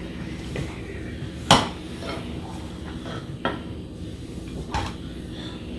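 Tableware clatter while eating: a few sharp clicks and clinks of dishes and utensils. The loudest comes about one and a half seconds in, with others near three and a half and five seconds.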